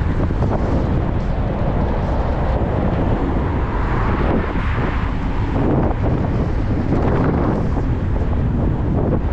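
Wind rushing and buffeting over the microphone of a moving bicycle rider, a loud steady roar strongest at the low end.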